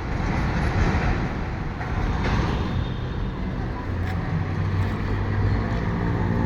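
Street traffic noise with a steady low engine hum from a vehicle that comes in about four seconds in.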